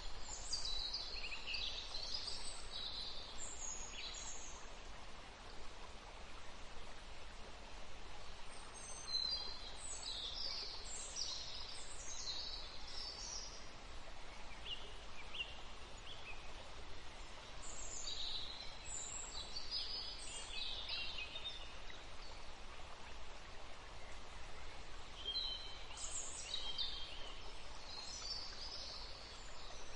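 Birds chirping in short bouts every several seconds, over a steady background hiss.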